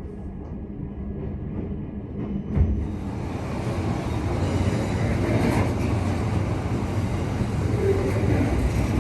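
Passenger train rumbling along the track. There is a single thump about two and a half seconds in, and after it the rumble and hiss grow louder.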